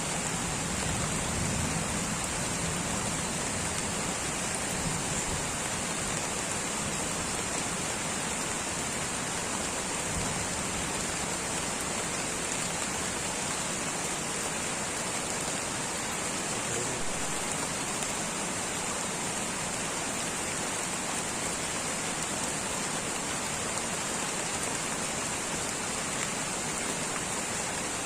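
Light rain falling steadily in a tropical rainforest, a continuous even hiss of raindrops with no breaks.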